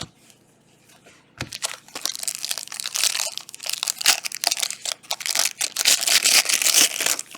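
Crinkling plastic wrapper of a trading-card pack being torn open and crumpled in the hands, a dense crackle that starts about a second and a half in and goes on steadily.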